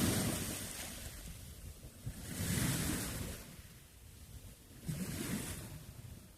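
Sea waves washing in, swelling and fading in three surges about two and a half seconds apart.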